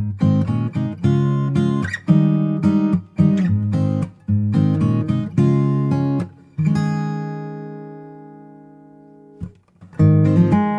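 Acoustic guitar music with strummed chords. Near the middle one chord is left ringing and fades away for about three seconds before the strumming starts again.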